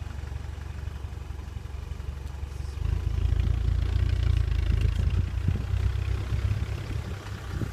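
Safari Land Rover's engine running steadily, then louder from about three seconds in as the vehicle pulls forward.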